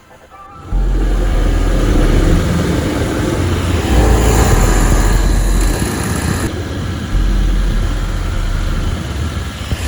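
Home-built mud motor with a Predator 670 V-twin engine running, loud with a strong low rumble, starting about a second in after a brief quiet gap.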